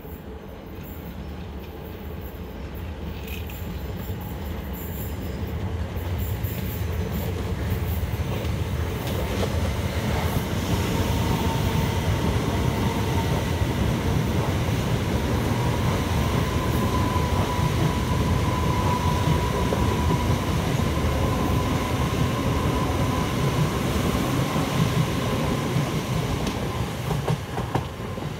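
Electric multiple unit passing close by on the line. Its deep rolling rumble builds for about ten seconds, then holds loud and steady, with a thin high whine riding over it for a while. A few sharp clicks from the wheels come near the end as the train draws away.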